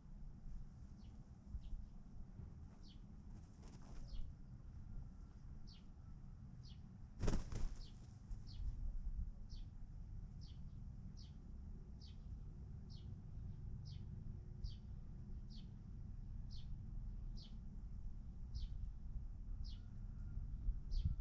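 A bird repeating a short, high chirp that falls in pitch, very evenly, about one and a half times a second, over a low rumble. A brief noisy burst about seven seconds in, which could be a rustle or wing flap.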